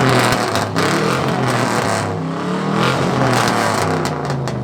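Loud vehicle exhaust from an engine being revved hard and held, its pitch wavering, with a few sharp cracks.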